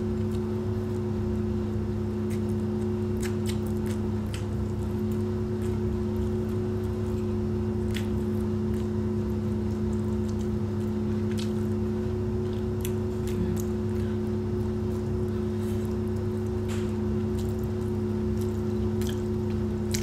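A person chewing and smacking her lips while eating rice with her hand, heard as scattered soft clicks over a steady two-tone mechanical hum.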